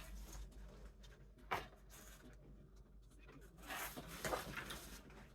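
Light handling sounds of poster board, ruler and pen while cutting lines are being marked. There is one sharp tap about a second and a half in, then a short cluster of taps and rustles around four seconds in.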